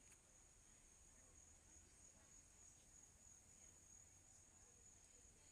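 Near silence apart from a faint, steady, high-pitched chorus of insects.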